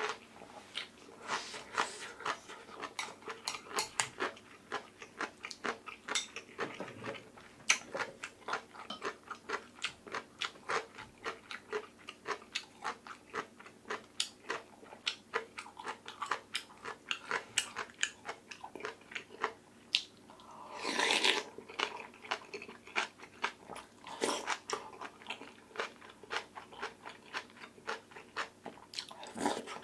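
Close-up eating sounds: crunching bites of radish kimchi and chewing, a dense run of small sharp crunches and clicks, with a longer noisy swell about two-thirds of the way through.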